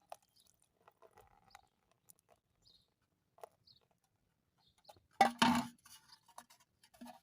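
Faint scattered clicks and taps of things being handled, then two loud knocks a fraction of a second apart about five seconds in.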